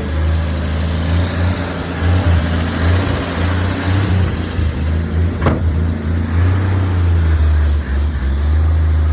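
1957 Chevrolet 3100 pickup's engine running steadily, its level rising and falling slightly, with one sharp knock about five and a half seconds in.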